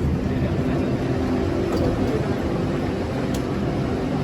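Inside a BTS Skytrain carriage: steady cabin rumble with a low, even hum.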